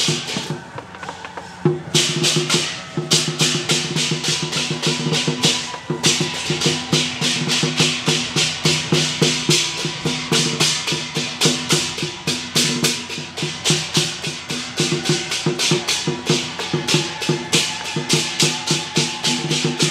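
Temple procession troupe's percussion music: quick, regular strikes at about three or four a second over steady pitched tones. The strikes pause briefly about a second in.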